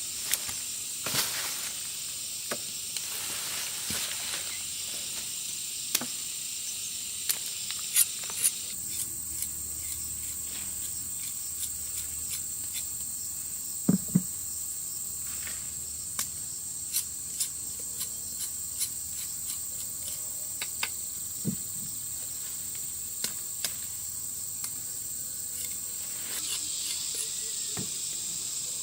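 Steady high-pitched insect chorus, with scattered sharp clicks and a few dull knocks.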